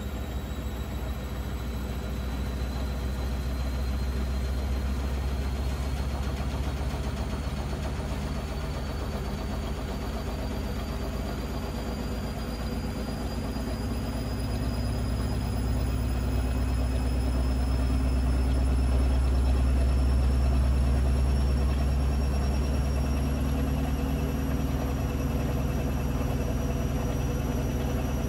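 Blomberg Granat 3200 washing machine spinning, its motor whine rising slowly and steadily as the drum gathers speed, over a steady low hum and rumble that swells a little about two-thirds of the way in.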